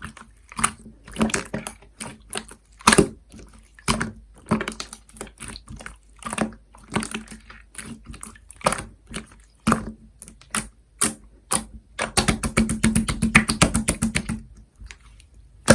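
Slime being pressed and squeezed by hand, giving irregular sharp pops and clicks, with a dense run of rapid crackles about twelve seconds in that stops shortly before the end.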